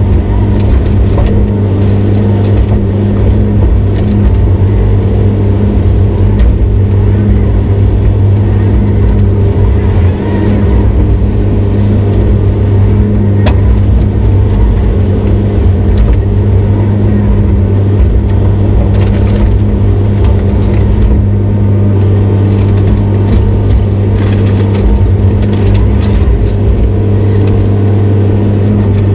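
Diesel engine of heavy construction equipment running steadily and loudly under work, a constant low drone, with a few light knocks and clicks of the work over it.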